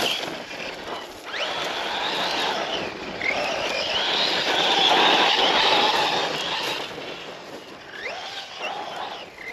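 Brushless electric motor of a Losi RC truck whining under throttle, its pitch sweeping up and down several times as the driver accelerates and lets off.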